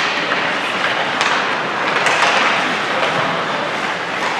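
Ice hockey rink ambience during a game: a steady wash of noise with a few sharp clicks.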